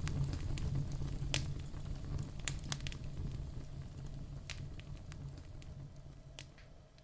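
Wood fire burning in a fireplace: irregular sharp crackles and pops from the logs over a low steady rumble of the flames. The sound fades down over the last couple of seconds.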